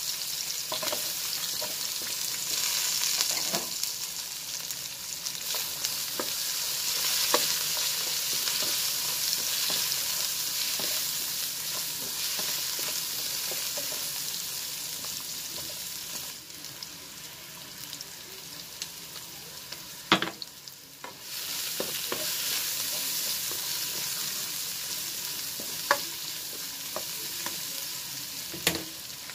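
Garlic, red onion and carrot slices sizzling in hot oil in a nonstick wok as they are stirred with a spatula. A few sharp clicks against the pan stand out. The sizzle dies down for a few seconds past halfway, then picks up again.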